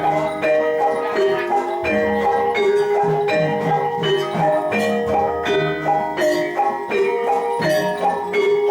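Javanese gamelan accompaniment for jathilan: metal-keyed mallet instruments strike a repeating melody of ringing notes over low strokes about once a second.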